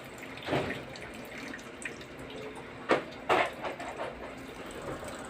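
Water dripping and splashing as it drains out of a motorcycle that sat submerged in floodwater, a steady trickle with a few heavier drops and splashes; the water in it is a sign of the flooding.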